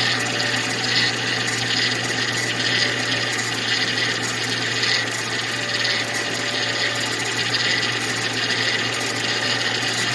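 Freshly rebuilt 2003 Ford Mustang GT 4.6-litre V8 idling steadily as it warms up after its first start, with a steady high whine over the running. It sounds healthy, with no big noises.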